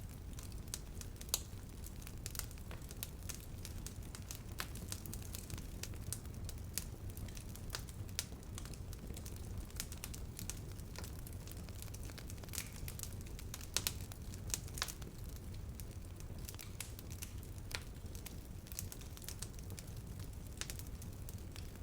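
Campfire burning: irregular crackles and pops of burning wood over a steady low rumble of the flames, with a few sharper snaps about a second in and again around the middle.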